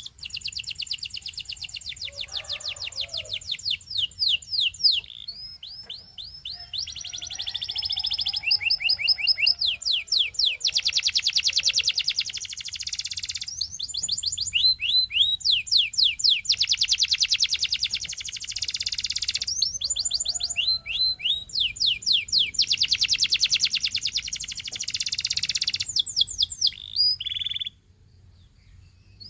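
Canary singing: long rolling trills of very fast repeated notes that switch to a new note type every few seconds, with short breaks between phrases. The song stops for about a second and a half shortly before the end.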